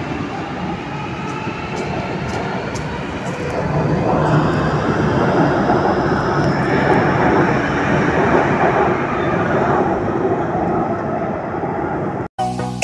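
Kwun Tong line Q-train electric multiple unit running, with a faint gliding motor whine over the steady running noise; it gets louder about four seconds in. It cuts off suddenly near the end.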